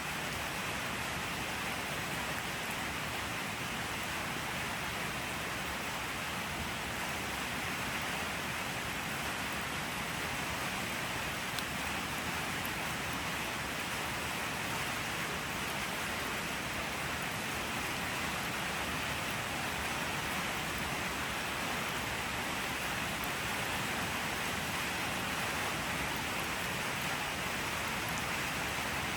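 Steady rain, an even hiss of falling drops with a few faint ticks of single drops and no change in strength.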